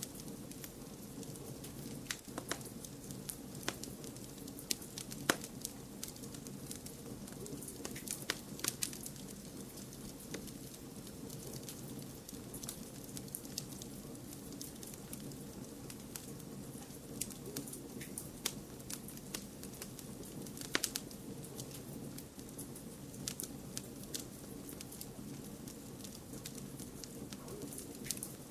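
Wood fire crackling in a fireplace: irregular sharp pops and snaps over a steady low rumble of burning, with a few louder pops about five seconds in and again around twenty-one seconds.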